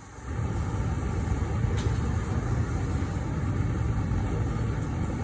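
A forge firing up: a loud, steady, low rushing noise comes on suddenly just after the start and holds level.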